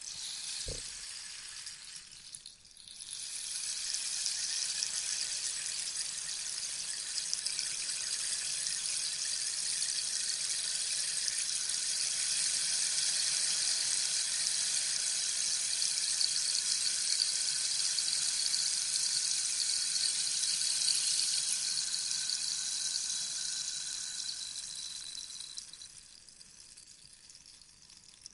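Rainstick turned over, its beads or seeds trickling down through the tube in a steady rain-like patter. One pour dies away at the start, a new one swells up about three seconds in, runs for some twenty seconds and fades out near the end. A soft low knock comes about a second in.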